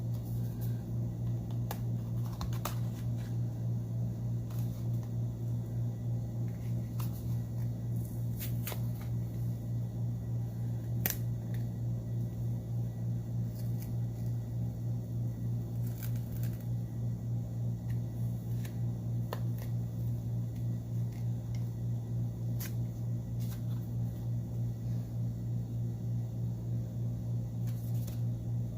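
A steady low hum from a running machine, with scattered light clicks and taps of small tools working on the phone.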